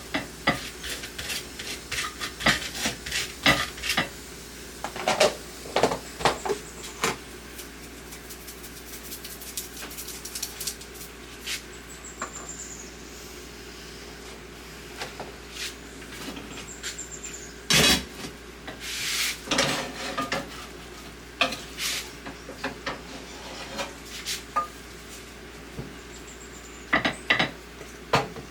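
Dishes and utensils clinking and clattering in irregular bursts, over a steady hiss.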